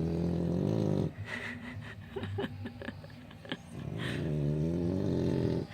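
English bulldog snoring in deep sleep: two long, low snores, with a few faint clicks in the pause between them.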